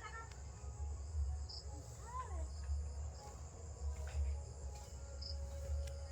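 Crickets chirring in a steady, high-pitched trill.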